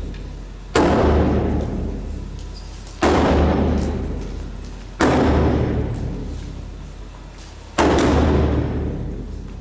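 Large Japanese taiko drum struck four times in a slow, uneven beat, about two to three seconds apart; each deep boom rings out and fades slowly before the next hit.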